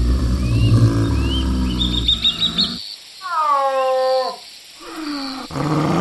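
A large wild animal calling: a low, rough call for nearly three seconds, then a shorter, higher cry that falls in pitch, and more low calls near the end. Small birds chirp in the background.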